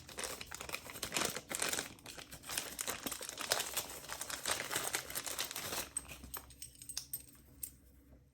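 Packaging crinkling and rustling as it is handled and unwrapped, in dense irregular crackles; it dies down to quiet handling about six seconds in.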